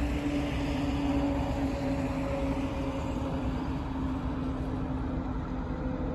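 Distant train on the line: a steady low hum with a fainter higher tone, both sinking slowly in pitch, over outdoor background noise.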